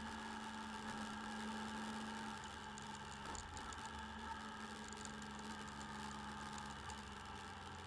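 Motorcycle engine running steadily, heard through a bike-mounted camera's microphone, with a steady hum that drops a little in level about two and a half seconds in.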